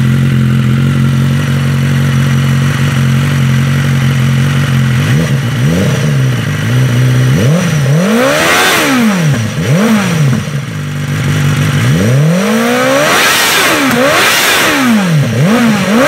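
BMW S1000RR inline-four sport bike engine through an Akrapovič exhaust, idling steadily and then, from about five seconds in, revved in a series of quick throttle blips, the pitch climbing and dropping back to idle with each one.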